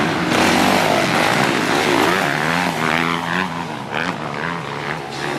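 Dirt bike engine revving, its pitch rising and falling again and again as the throttle opens and closes.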